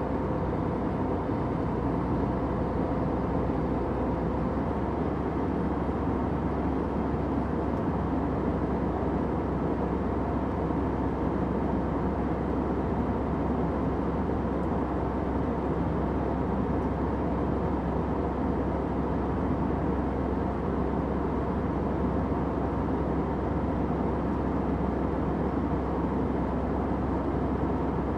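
Steady airplane cabin noise: an even rushing sound with most of its weight low and in the middle, unchanging throughout. A faint steady tone in it fades out about four seconds in.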